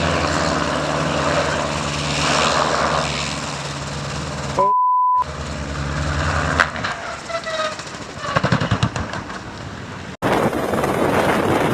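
Steady drone of an aircraft engine, cut by a single clean beep of about half a second around five seconds in. After an abrupt cut near the end, wind buffets the microphone.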